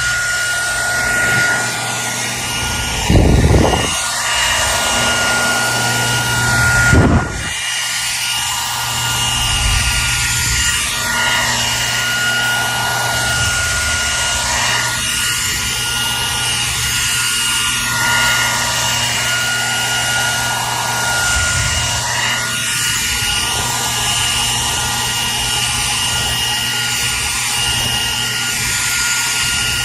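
Hair dryer running steadily: an even rushing hiss from its fan with a steady high whine and a low hum. Twice, about three and seven seconds in, a brief low thud breaks in.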